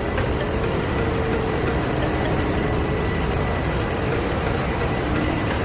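Ship's engine-room machinery running: a steady drone with a faint high whine over it.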